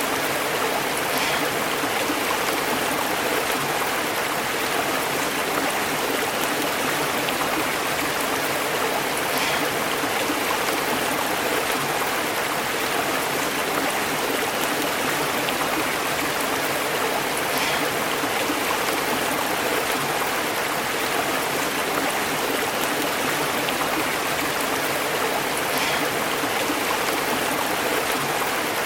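Stream burbling over rocks, a steady rush of water with no let-up.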